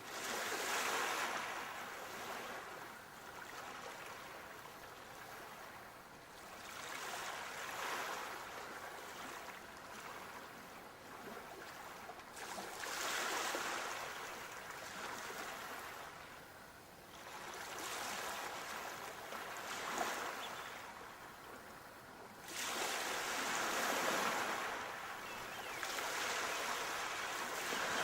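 Sea waves breaking and washing up the shore. Each surge swells and fades, one every five seconds or so.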